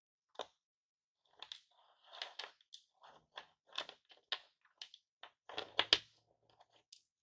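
Smashed hard-candy lollipop being crunched and handled: a run of irregular crackles and clicks. The loudest cluster comes about five and a half to six seconds in, with a low knock.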